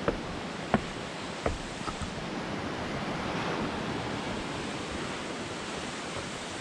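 Steady rush of a mountain stream's water, with a few sharp clicks in the first two seconds.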